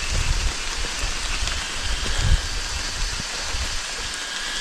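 Steady rain falling on jungle foliage, an even hiss, with occasional low thumps.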